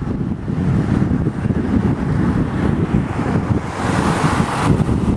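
Wind buffeting the microphone on the move: a heavy, gusting rumble. About three and a half seconds in, a brighter hiss rises and then cuts off suddenly about a second later.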